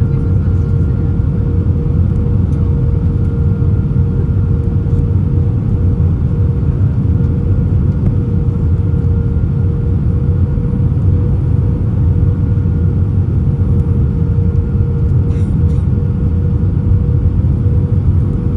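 Airbus A320 heard from inside the cabin: a steady, loud low rumble of engines and airframe with a thin steady hum over it.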